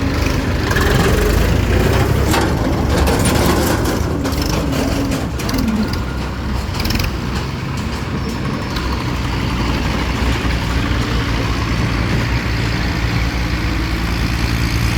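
Diesel farm tractor engine running hard under load, its pitch wavering through the first half amid scattered knocks and rattles, then settling to a steady note.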